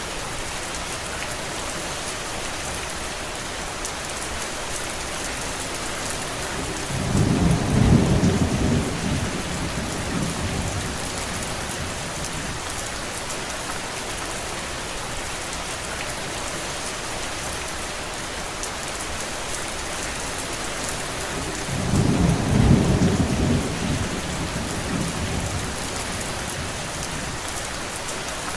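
Steady heavy rain, with two low rumbles of distant thunder about fifteen seconds apart, each swelling and dying away over two to three seconds.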